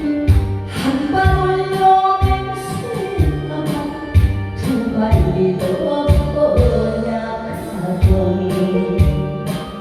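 A song with a singing voice over a backing band, with a steady beat of low drum strokes.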